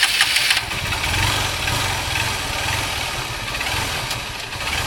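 Motorcycle engine idling steadily, a little louder and noisier in the first half second.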